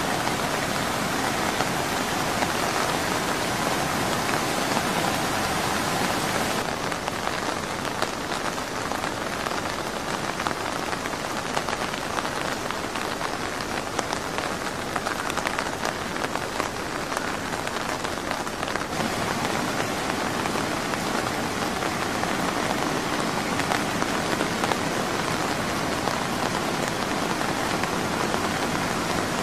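Heavy rain falling steadily, a dense, even hiss that shifts slightly in tone twice, about seven and about nineteen seconds in.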